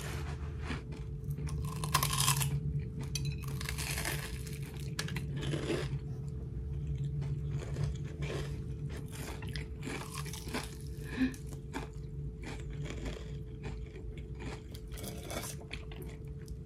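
Crunching and chewing of crisp deep-fried food, close to the microphone, an irregular run of crackly crunches bite after bite. A steady low hum runs underneath.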